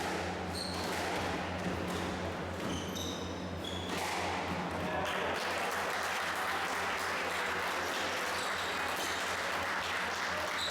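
A squash ball being struck and hitting the court walls, with short shoe squeaks on the court floor, over a steady low hum.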